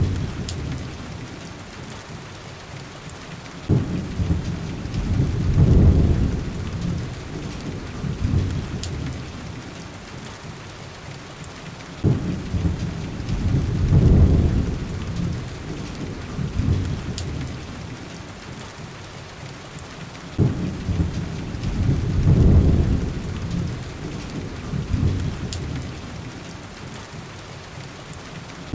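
Steady heavy rain on a window glass, with rolling thunder. Three low rumbles each open with a sharp crack, about 4, 12 and 20 seconds in, then swell and fade over several seconds.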